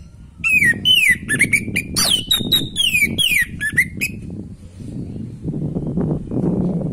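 Orange-headed thrush (anis merah) singing a fast run of whistled, mostly falling notes for about three and a half seconds. The song stops about four seconds in, leaving a low rumbling background noise.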